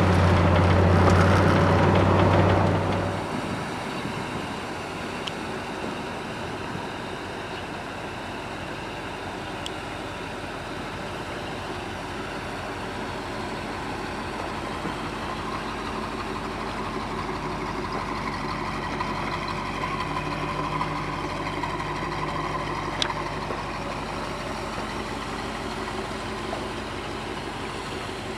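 1973 Chevrolet Corvette V8 running, louder for about the first three seconds, then dropping back to a steady idle.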